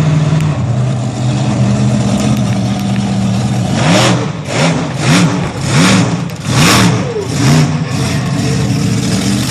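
Monster truck engine idling, then revved in a quick string of sharp blips from about four seconds in, each one rising and falling in pitch, before settling back to a steady idle.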